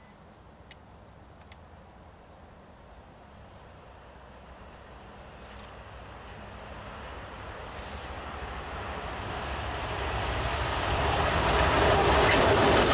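A passenger train approaching on the track, its rumble and wheel-on-rail noise growing steadily louder until the locomotive draws level near the end.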